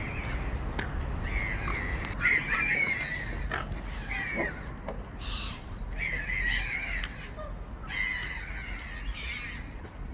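Birds at a feeding flock calling again and again, one call about every second, some overlapping.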